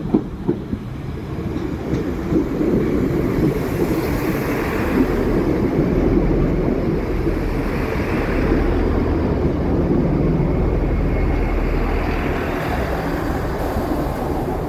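Great Western Railway diesel multiple unit running along the platform, the sound of its engine and wheels on the rails building up and staying loud as the carriages go past. There are a few sharp clicks right at the start.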